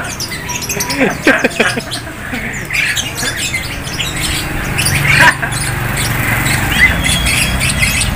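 Many caged birds of mixed kinds calling at once: short, overlapping chirps and squawks.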